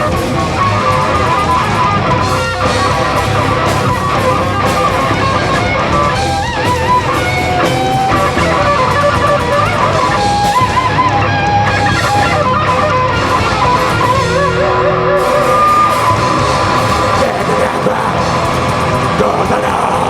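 Live heavy rock band playing an instrumental passage: distorted electric guitars over bass and drums, with a lead guitar melody bending and wavering in pitch.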